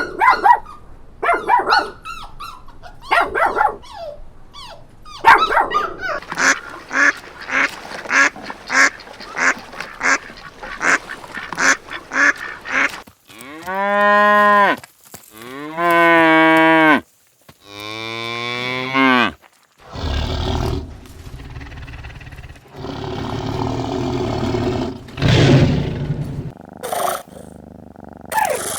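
A run of farm animal calls: many short, quick calls in the first half, then three long wavering calls in a row, then rougher, lower calls.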